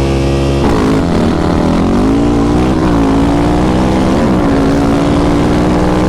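Off-road vehicle engine running hard at speed. Its pitch holds mostly steady, with a rise about a second in and brief dips and rises around three and four seconds in.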